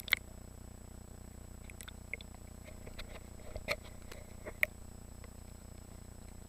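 A few scattered drips and small splashes of water around a kayak, with some sharp little clicks among them, over a low steady background.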